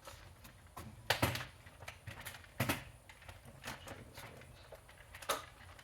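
Irregular knocks, bumps and clicks of vacuum cleaners, parts and cardboard boxes being handled and set down, the loudest about a second in, near three seconds and near the end.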